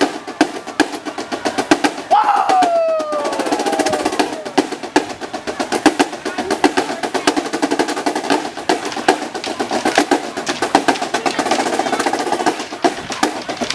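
Marching band drumline playing a fast snare-drum cadence, with many rapid strokes. About two seconds in, a short sound slides down in pitch over the drumming.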